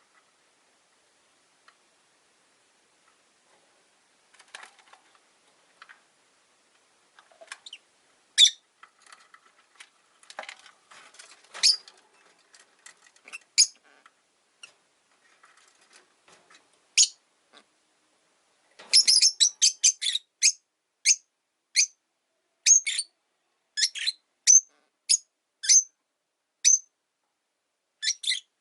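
Rosy-faced lovebirds chirping: short, sharp, high calls, few and scattered at first, then coming quickly, about two a second, for the last third.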